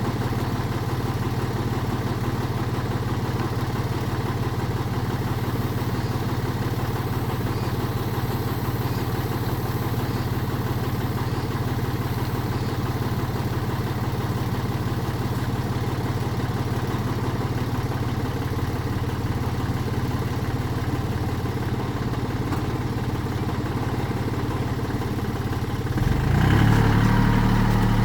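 Tractor engine running at a steady pace, then growing louder with a change in its note near the end.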